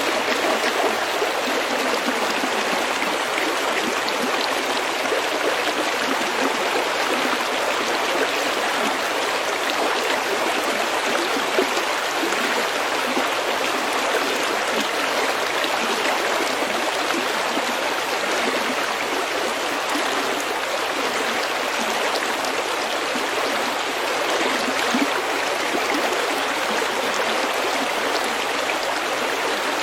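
Stream water running steadily over pebbles, a continuous even babbling rush.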